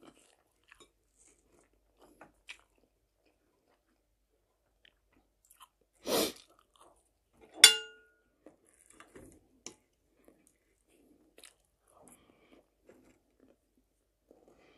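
Quiet chewing and small mouth sounds of someone eating an omelette with bell pepper. About six seconds in there is a short scraping noise, then a metal fork strikes the plate with a sharp, ringing clink.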